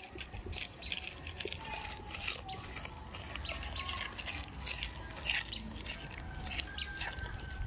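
Small birds chirping in quick short notes, mixed with frequent sharp clicks and rustling over a low rumble.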